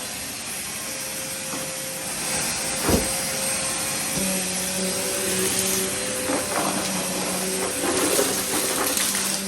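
Vacuum cleaner running steadily, its motor humming over a rushing hiss of air. There is a sharp knock about three seconds in, and the hum grows louder and steadier about a second later.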